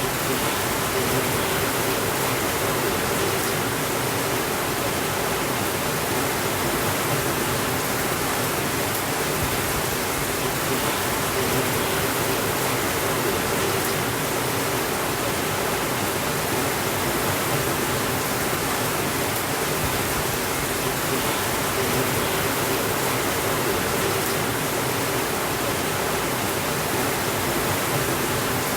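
Steady rainfall: an even hiss with no thunder.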